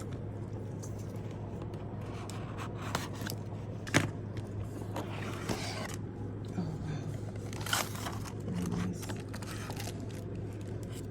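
Subscription box packaging being handled and opened: scattered rustles, scrapes and clicks, with one sharp click about four seconds in, over a steady low hum.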